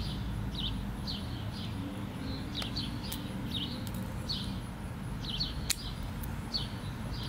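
A small bird chirping over and over, short high notes about twice a second, over a faint low background rumble. A single sharp click comes a little before the end.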